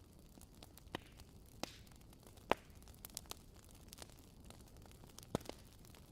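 Wood fire crackling: scattered sharp pops and snaps over a soft steady hiss, with two louder pops about two and a half and five and a half seconds in.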